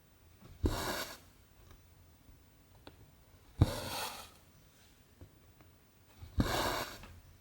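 Cross-stitch needle and cotton thread being pulled through 14-count canvas: three short rasping pulls, each starting with a sharp tick, about three seconds apart.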